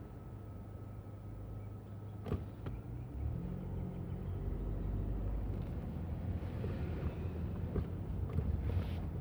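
Motor vehicle engine running at a low rumble, its pitch stepping up and getting louder about three seconds in as it accelerates. A sharp click sounds just over two seconds in.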